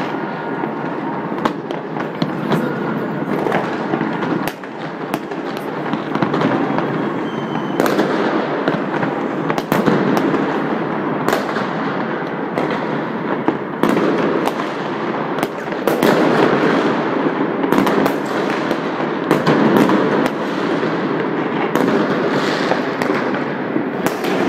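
Massed fireworks going off across the city: a continuous crackling din of rockets and firecrackers bursting, with many sharp bangs at irregular intervals.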